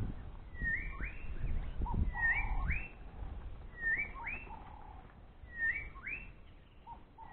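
A bird calling over and over: each call is a short whistle that climbs and levels off, then a quick sweep upward, repeated about every one and a half seconds. A low rumble sits under the first few seconds.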